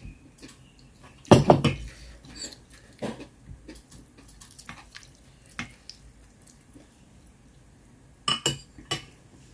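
Eating utensils knocking and clinking against dishes and a pot: a few scattered clinks, loudest about a second and a half in and again near the end.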